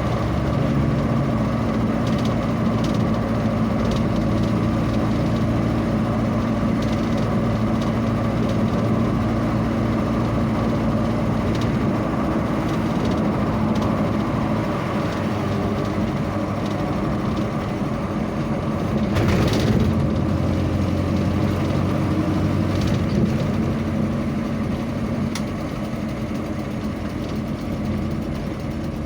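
A vehicle engine running steadily with a low hum. A short rush of noise comes about two-thirds of the way through.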